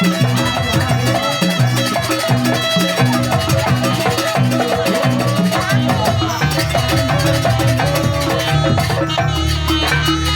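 Live Javanese jaranan ensemble music, loud and steady, with drums and percussion under a long held melodic note.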